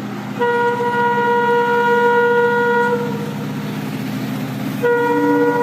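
Indian Railways locomotive horn sounded in two long blasts by a train running through a station, the first lasting about two and a half seconds and the second starting near the end, over the steady low rumble of the train.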